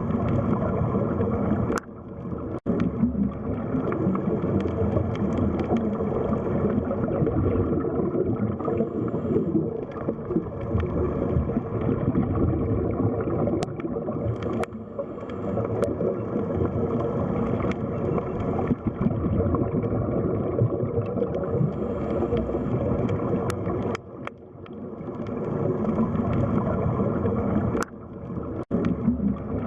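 Underwater ambience of the sea bottom: a steady, muffled rush and gurgle of water, mostly low in pitch. It cuts out suddenly for a moment a few times, once about two seconds in and twice near the end.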